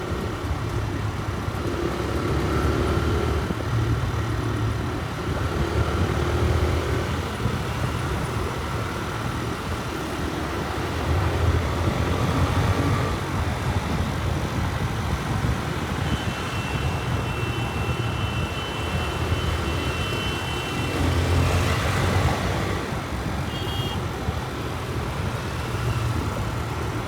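A TVS Raider 125 motorcycle's single-cylinder engine running on the move, its note swelling and easing every few seconds with the throttle, over wind and road noise. A steady high-pitched tone sounds for about five seconds past the middle, and another vehicle sweeps past shortly after.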